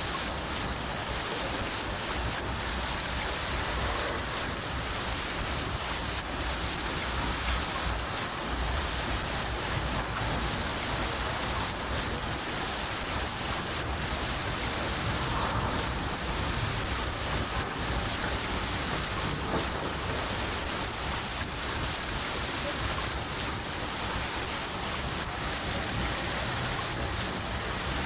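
A cricket chirping steadily, about three chirps a second, with one short pause near the end, over steady rain and a low rumble of thunder.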